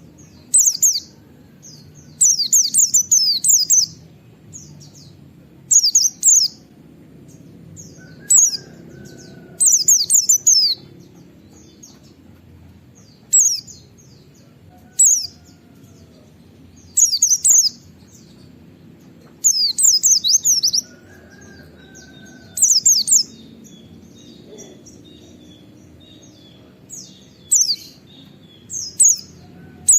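A white-eye (pleci) singing its rapid-fire 'nembak' song: short bursts of fast, high, sweeping 'wit-wit' chirps, repeated about a dozen times with brief pauses between them.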